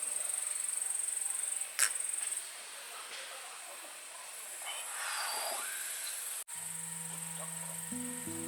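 Insects chirring steadily in a high-pitched buzz, with one sharp click about two seconds in. Near the end the sound cuts out briefly and music with held low notes begins under the insects.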